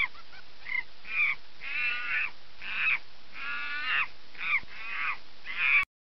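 Toucan calling: a series of about ten short calls, some sliding down in pitch, that cuts off suddenly near the end.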